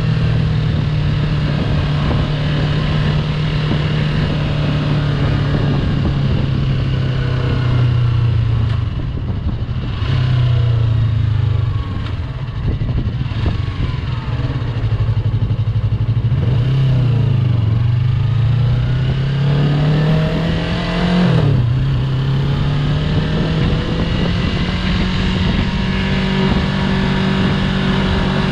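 Yamaha YZF-R3's parallel-twin engine running under way, its note mostly steady, then falling and climbing again with throttle, with a sudden drop in pitch about three quarters of the way through.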